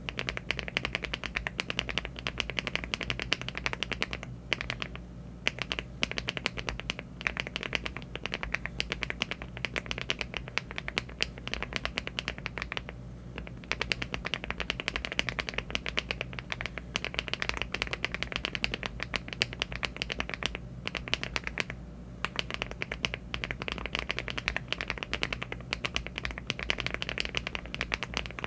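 Fast typing on a LEOBOG Hi75 aluminium mechanical keyboard fitted with HMX Windlight switches and Cherry-profile keycaps. Keystrokes come in dense, continuous runs, broken by three short pauses.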